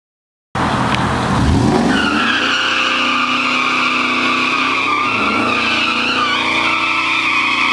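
Supercharged 5.4-litre V8 of a 2004 Ford Lightning pickup held at high revs in a burnout, the rear tyres squealing steadily. It starts abruptly about half a second in, the engine climbing in pitch before holding high.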